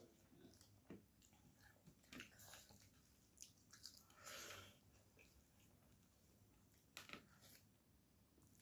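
Faint eating sounds: soft chewing with scattered mouth clicks and smacks, and a slightly longer smack about four seconds in, as a woman and a child eat rice by hand.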